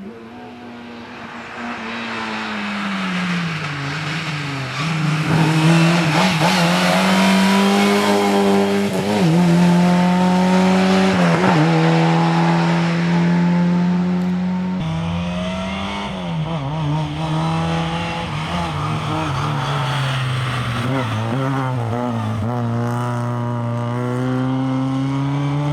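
Lada 2107 rally car's four-cylinder engine driven hard on a rally stage, revs climbing and then dropping sharply several times as it shifts and lifts, with tyre noise. The sound changes abruptly about halfway through.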